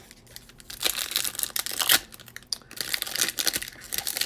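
Crinkling and tearing of a baseball card pack wrapper being opened and handled: an irregular run of crackles and rustles with small clicks.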